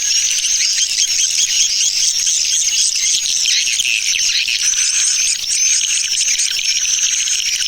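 Swiftlet lure-call recording ('tarik' pulling call) playing: dense, continuous twittering of many swiftlets, rapid high chirps under a steady high trill, of the kind played to draw swiftlets into a nesting house.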